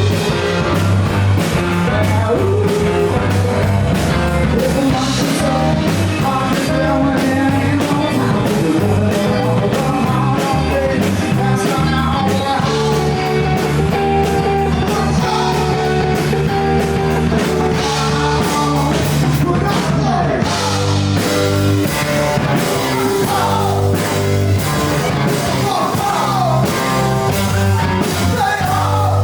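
Rock band playing live, with a singing voice over electric guitars and drums, loud and steady.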